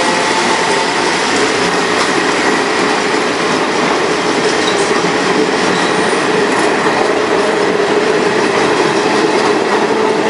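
A CPTM stainless-steel electric multiple-unit train passing close by, a loud, steady rush of wheels on rail with several steady tones held over it.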